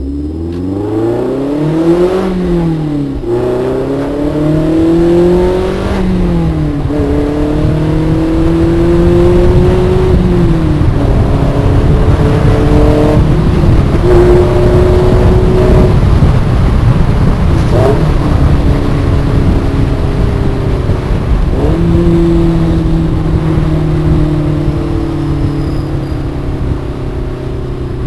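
Toyota MR-S's 1.8-litre four-cylinder engine and exhaust under way, the engine note climbing under acceleration and dropping sharply at each gear change, then running steadier with slow gentle rises and falls in pitch.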